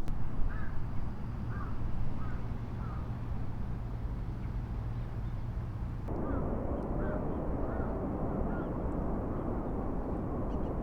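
Outdoor ambience: a steady rush of wind or distant traffic with birds giving short calls every second or so. The background changes abruptly about halfway through.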